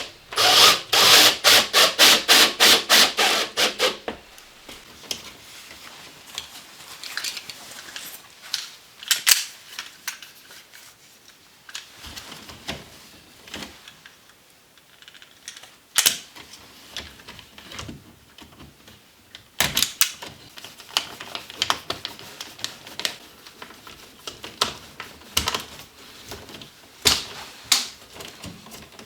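Hand-tool clicks and knocks during electrical work: a fast even run of sharp taps, about five a second, for the first four seconds, then scattered single clicks and knocks.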